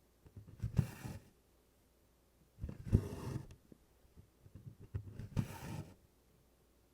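Needle and DMC cotton floss being drawn through stretched Congress cloth canvas in tent stitch: three stitch strokes about two seconds apart. Each is a short rustling swish of thread through the canvas with soft taps.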